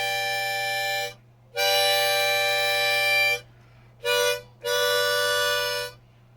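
Harmonica playing four held chords separated by short gaps: two long ones, then a brief one, then a last long one that stops about six seconds in.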